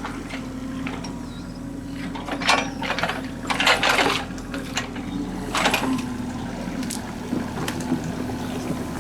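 An excavator running steadily while its bucket works wet mud, with sloshing and knocks from the mud and water: the loudest between about two and a half and four seconds in, and again near six seconds.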